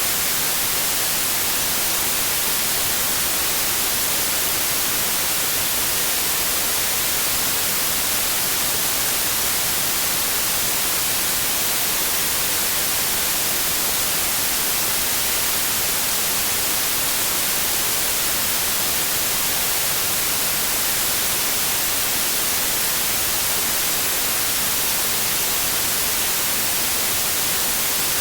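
Generated white noise: a steady, even hiss, heaviest in the treble, with no change or breaks.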